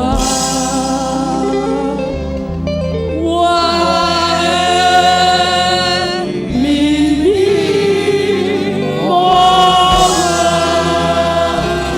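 Church praise team singing a slow Yoruba gospel worship song in long held notes, with instrumental accompaniment underneath.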